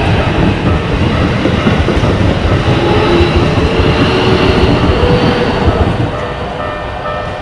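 Keikyu electric train passing over a level crossing: loud rumble and clatter of the wheels, with a whine from the motors. The crossing's warning bell rings about twice a second, heard more clearly near the end as the train noise falls away.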